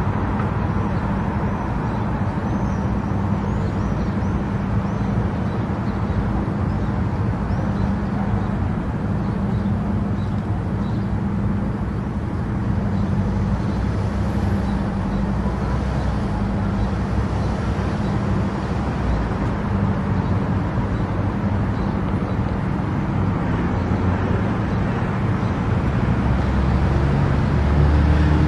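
Steady road and engine noise of a car cruising on an expressway: a constant tyre rumble with a steady low hum, which grows a little louder near the end.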